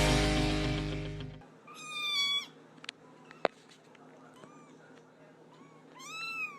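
A loud music chord rings out and fades, then cuts off abruptly about a second and a half in. A cat then meows twice: once about two seconds in, and again near the end with a rising-then-falling pitch. A sharp click and a few faint short chirps fall between the two meows.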